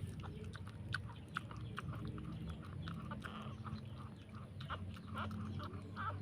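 A mother dog chewing and licking just after whelping, eating her newborn puppy's afterbirth: a run of small, wet smacking clicks.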